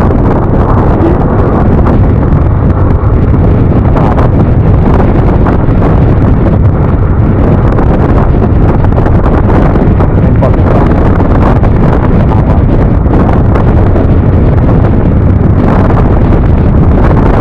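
Steady wind rush and buffeting on a rider's microphone while riding a Yamaha NMAX scooter at speed, with a constant low rumble underneath.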